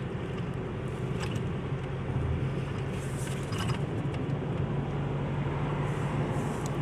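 Steady engine and tyre noise of a 2023 Isuzu heard from inside the cabin while driving at an even speed, with a low hum throughout and a few faint ticks.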